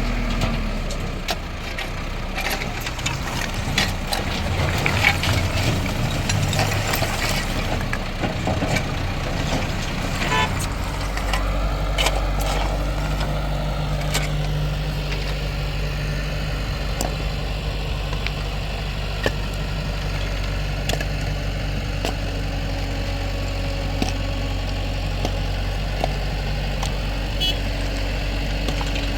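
Tractor engine running, with scattered knocks and clatter during the first ten seconds; from about eleven seconds in it settles into a steady idle.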